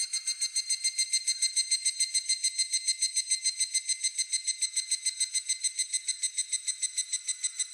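Higurashi (evening cicada, Tanna japonensis) calling: a long, steady train of rapid high-pitched pulses, about eight a second.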